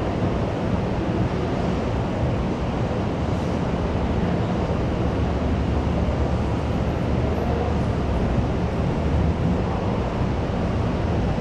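Steady school canteen ambience: a dense, even din, heaviest in the low range, with no single voice or clatter standing out.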